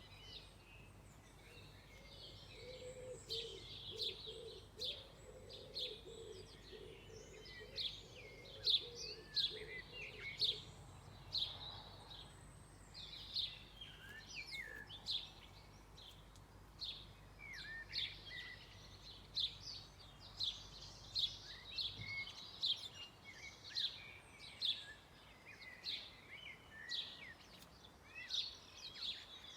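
Several birds singing and chirping, with short sharp calls overlapping every second or so. A faint low hum underneath stops about two-thirds of the way through.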